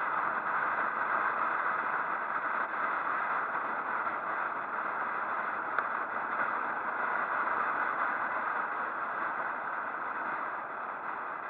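Steady rushing wind and road noise on a microphone riding along on a moving motorcycle.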